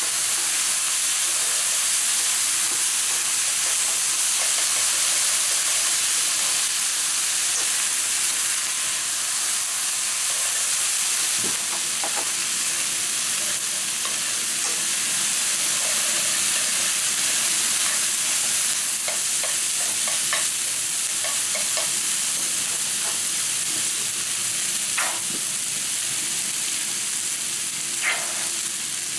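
Yakisoba noodles, pork and vegetables sizzling steadily as they are stir-fried in a hot frying pan, with scattered light taps from tossing them in the pan.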